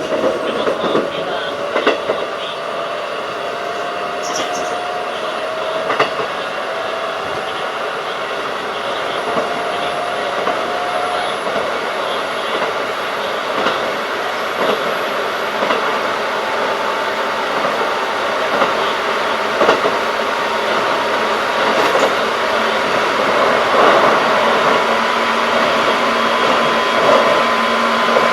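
Running sound of a Keikyu 1500 series field-chopper electric train, steady rail rumble with a faint motor and gear whine that slowly rises in pitch as the train gathers speed. Occasional sharp clicks come from the wheels crossing rail joints.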